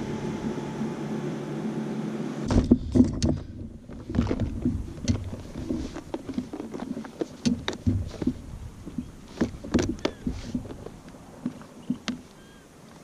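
A steady motor hum for about two and a half seconds stops abruptly. Irregular knocks and taps on a kayak follow, dying away toward the end.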